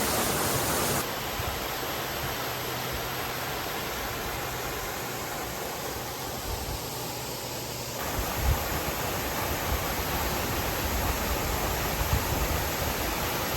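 Steady rush of falling water from a waterfall. A few low bumps hit the microphone in the second half.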